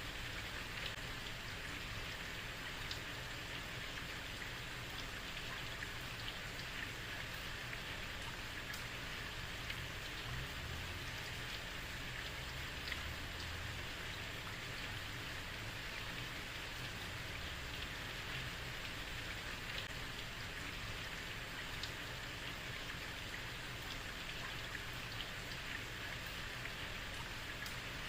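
Heavy rain falling steadily on a street, a dense even hiss with scattered sharper drop ticks over a low rumble.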